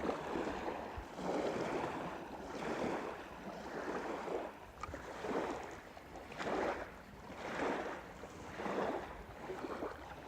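Small wind-driven waves lapping at the water's edge, swelling and falling back about once a second, with wind in the background.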